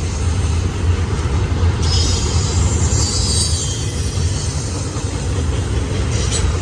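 Freight train cars rolling past with a steady, loud low rumble. From about two seconds in, a high wheel screech rises over it for a couple of seconds.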